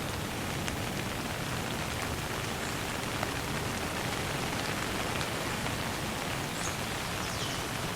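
Steady light rain falling, an even hiss with scattered drop ticks. Two faint short falling chirps near the end.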